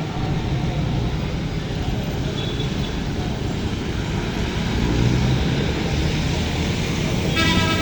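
Road traffic with vehicle engines running in a steady low rumble, and a vehicle horn sounding near the end.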